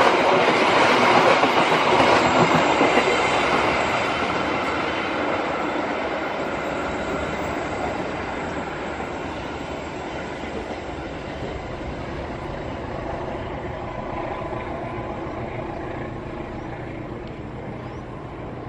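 Passenger train coaches passing close by on the rails, loud at first, then fading steadily as the tail of the train moves away down the line.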